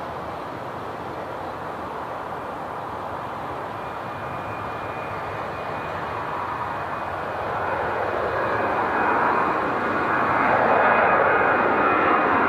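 Jet airliner engines growing steadily louder as the aircraft approaches, with a thin high whine running through the noise.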